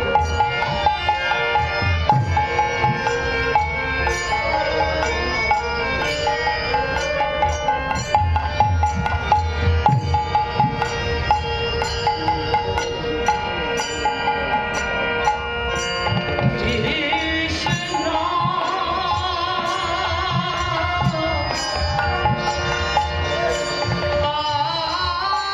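Devotional kirtan music with a hand drum keeping a rhythm and high percussion strokes under sustained melodic instruments. A wavering melodic line comes in about two thirds of the way through.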